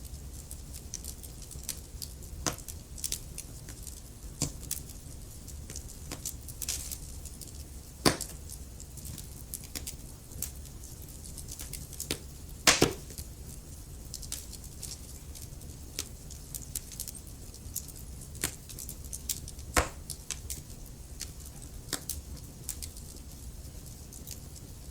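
Wood fire crackling: a steady scatter of small snaps and pops over a low steady rumble. A few sharper, louder pops stand out, the loudest a double pop near the middle.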